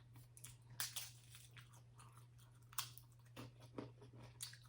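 A person chewing a chicken quesadilla close to the microphone, faint, with a few scattered sharp mouth clicks and smacks.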